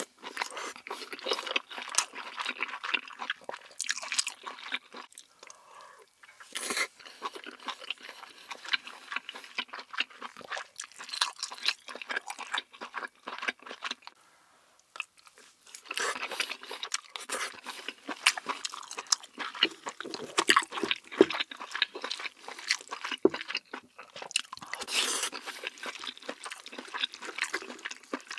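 Close-miked chewing of a mouthful of king crab meat: dense clicking mouth sounds, with a short quieter pause about halfway through.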